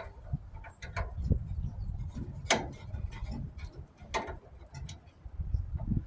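Irregular metallic clicks and clinks of hand tools working at the screws and fittings of an old gas furnace's gas line, over a low rumble.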